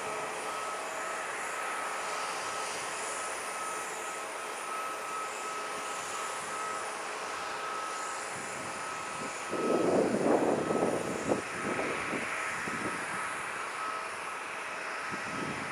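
Airbus A320 jet engines running steadily, a constant rush with a thin whine over it. About ten seconds in, a louder, uneven rumble swells for a couple of seconds and then eases back.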